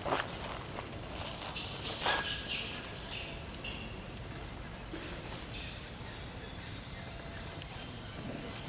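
Monkey giving a run of high-pitched squeals, about half a dozen short arching calls in quick succession, that stop about six seconds in.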